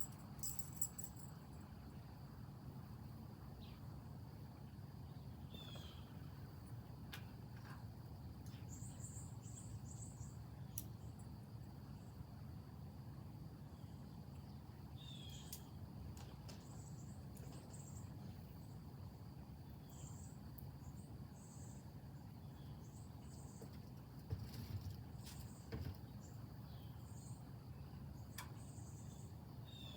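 Insects calling steadily in a high continuous drone, with clusters of short high chirps repeating throughout, and a short falling bird call three times, over a low steady background rumble.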